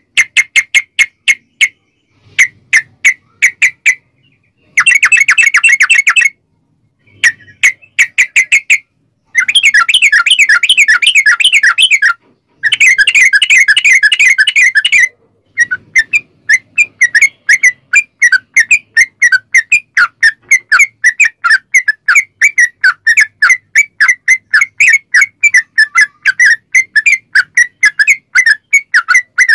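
Yellow-vented bulbul (trucukan) song: fast repeated notes with short gaps, then three long, dense trills in the middle, the long 'ropel'. After that comes an unbroken run of quick notes to the end.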